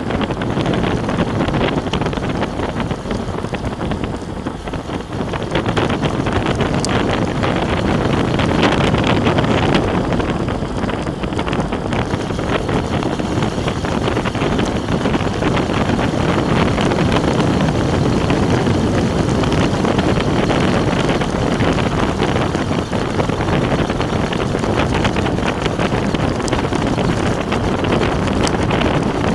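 Heavy wind buffeting the microphone on the way down a hill, a loud, steady rush that eases briefly about four seconds in.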